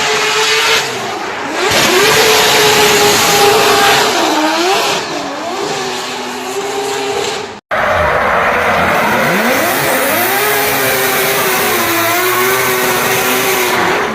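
Three-rotor rotary engine of a Mazda RX-8 drift car revving up and down through a drift over heavy tyre noise. The sound cuts off abruptly about halfway through and picks up again with more of the same revving.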